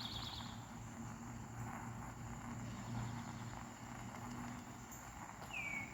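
Faint outdoor ambience: a low steady hum under a quiet hiss. A songbird calls with a short buzzy trill at the very start, then a falling whistle near the end.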